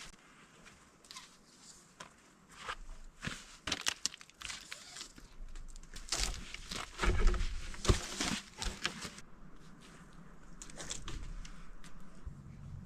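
Rustling and crunching in dry forest litter, with a run of sharp snaps and cracks that is busiest and loudest from about six to eight seconds in.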